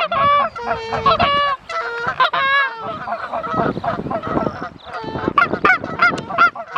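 Canada goose honks and clucks, many calls overlapping quickly one after another.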